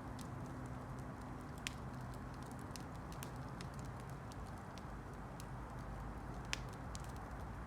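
Wood campfire crackling: a steady low hiss with scattered small ticks and snaps, and two sharper pops, one near the start and one near the end.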